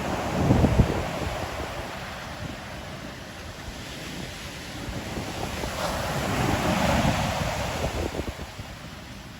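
Ocean waves breaking and washing on the shore, surging twice, about half a second in and again around six to seven seconds in, with wind rumbling on the microphone.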